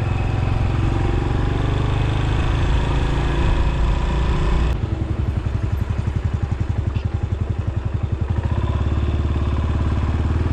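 Yamaha SR400 single-cylinder motorcycle engine running under way, with wind rushing past. About halfway through the wind noise drops away suddenly and the engine settles to a steady, even thumping at low speed.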